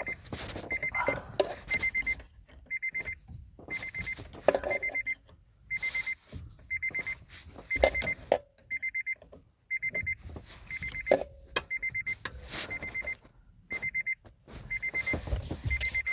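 A Honda Odyssey's warning chime beeps over and over at a steady high pitch, roughly once or twice a second. Between the beeps come irregular bursts of ratchet clicking and metal knocks as a 10 mm ratchet slowly loosens the bolt on the steering shaft splines.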